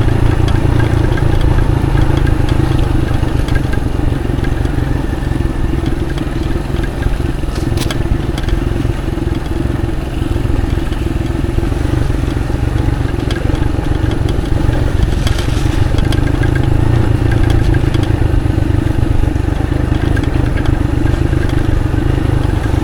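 Motorcycle engine running steadily as it is ridden, with one sharp click about eight seconds in.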